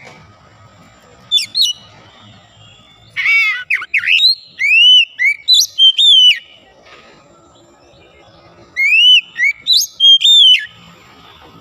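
Oriental magpie-robin (kacer) singing: loud phrases of clear whistled notes that swoop up and down, coming in three bursts with short pauses between.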